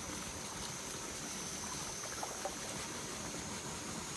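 Outdoor ambience: a steady rushing hiss with a continuous high-pitched insect drone through it.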